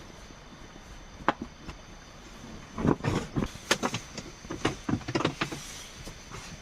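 A run of irregular knocks and clatters, one about a second in, then a dense cluster in the middle, over a steady faint high hum.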